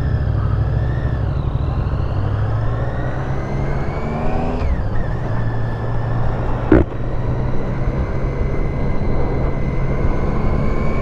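Triumph 675 inline-three engine pulling under way, its pitch rising, dropping sharply on an upshift about halfway in, then climbing slowly again, with steady wind rumble on the helmet microphone. A single sharp click comes shortly after the shift.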